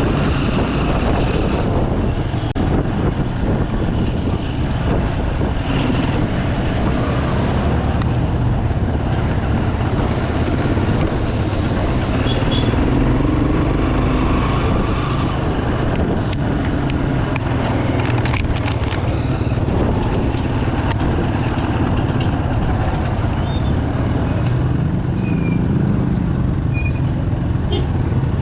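Bajaj Pulsar 200 motorcycle's single-cylinder engine running under way, its pitch rising and falling with the throttle, over steady road and wind noise in city traffic.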